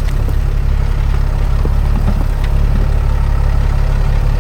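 Truck engine running steadily at low speed, a continuous low drone, as the truck slowly tows another vehicle.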